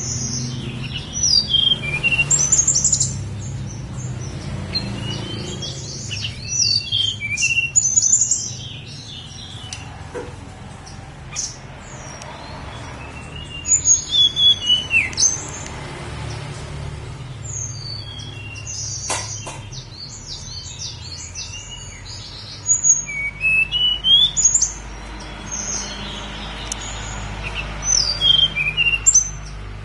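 Tledekan gunung (Sunda robin) singing: five or so bursts of quick, high whistled notes sliding up and down, with pauses of a few seconds between them, over a steady low hum.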